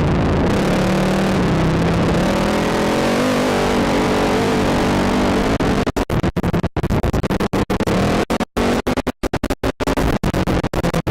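ATV engine running and revving, its pitch rising and falling. About halfway through, the sound starts cutting in and out rapidly in a choppy stutter.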